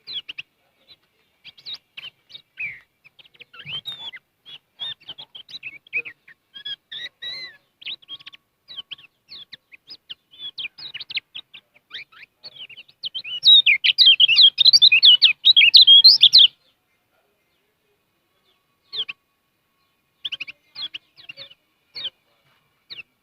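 Kecial kuning, a small yellow white-eye, singing a fast run of high chirps and twittering notes that swells into a dense, loud burst of song a little past halfway, breaks off, then gives a few scattered chirps near the end.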